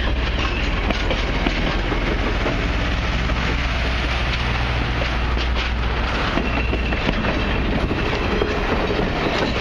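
Passenger railcars rolling past close by: a steady low rumble of steel wheels on the rails with irregular clicks and clacks.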